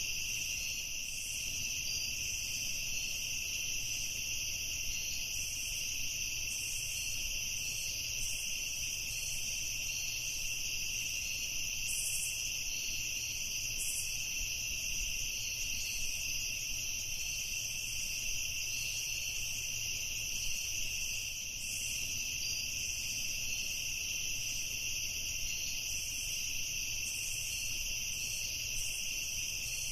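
Evening chorus of crickets trilling continuously, a steady high-pitched drone with no breaks.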